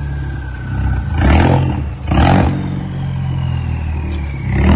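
Ford Focus RS with a custom exhaust running at low revs, with two short, loud throttle blips about a second and two seconds in and another rise near the end. A faint whine slowly falls in pitch under the engine note.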